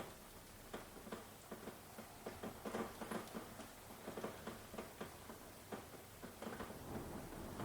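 Rain: irregular close drops tapping and dripping over a soft steady hiss. A low rumble starts to swell near the end.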